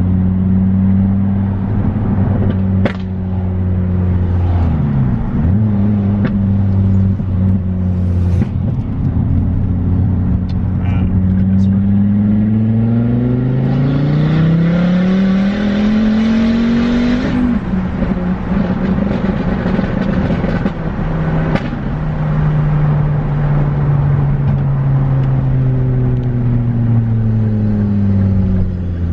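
Ford Focus ST's 2.5-litre turbocharged five-cylinder engine heard from inside the cabin while driving: steady cruising, then accelerating with the pitch climbing and a louder rush on top through the middle, a sudden drop at a gear change, and the pitch falling as it eases off near the end.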